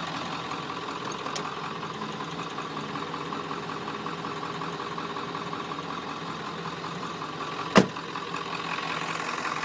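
1996 Ford F-350's 7.3 L Powerstroke turbo-diesel V8 idling steadily. A single sharp knock sounds about eight seconds in.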